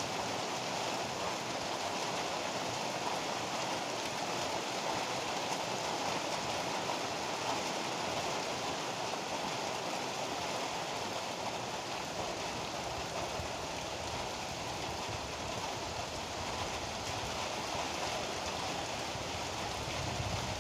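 Heavy rain falling steadily, an even continuous hiss without breaks.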